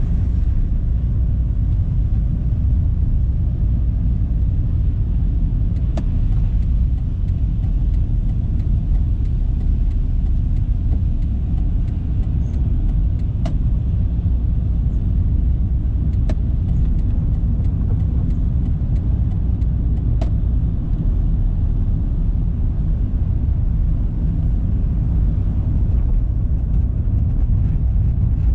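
Car driving along city roads: a steady low rumble of tyres and engine, with a few faint clicks.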